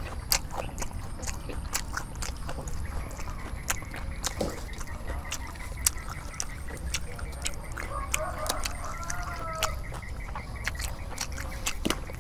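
Close-up eating sounds: chewing crispy rice pancake (banh xeo) with many sharp wet mouth clicks, and fresh herb leaves handled as a piece is wrapped and dipped in sauce. A faint wavering call sounds in the background about eight seconds in.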